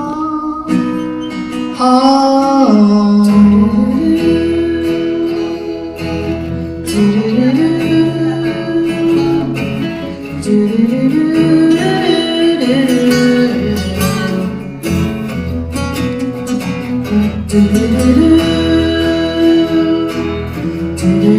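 Live acoustic guitar with a singing voice carrying a slow, held melody.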